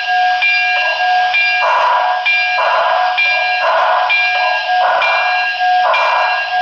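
A model steam locomotive's DCC sound decoder, played through the model's small speaker, ringing the locomotive bell about twice a second over steady exhaust chuffs. The sound is thin and narrow.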